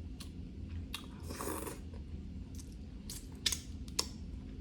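Snow crab leg shells being cracked and picked apart by hand: a string of sharp clicks and snaps, with a short scraping rustle about a second and a half in.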